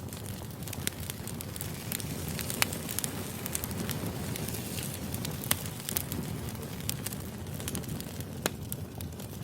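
Wood fire burning: a steady low rush with irregular crackles and sharp pops of the logs, the loudest pops about two and a half, five and a half and eight and a half seconds in.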